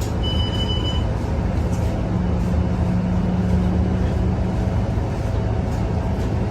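Scania K230UB city bus's diesel engine running under way, heard from inside the cabin as a steady low drone that swells for a few seconds in the middle. A short high electronic beep sounds just after the start.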